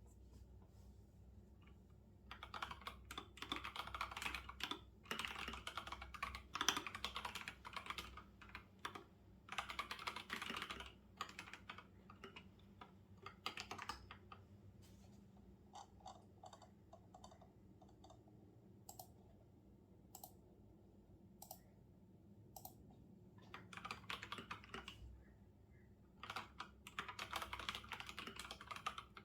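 Computer keyboard typing: after about two seconds of quiet, fast runs of keystrokes, thinning to scattered single key presses in the middle, then fast typing again near the end.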